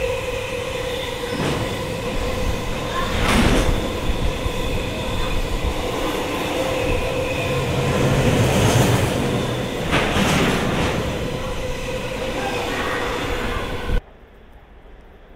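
Freight train of tank wagons rolling past close by: a steady rumble of wheels on rail with a held ringing tone over it, and a few sharp clacks as wheels cross rail joints. The sound cuts off suddenly near the end to a much quieter background.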